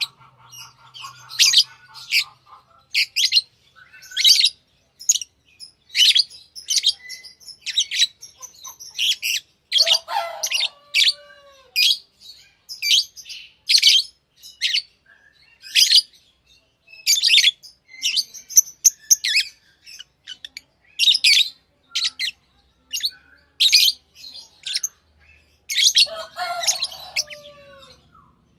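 Pet lovebirds chirping: short, sharp, high-pitched calls repeated about once or twice a second, with a couple of lower, downward-sliding calls around ten seconds in and again near the end.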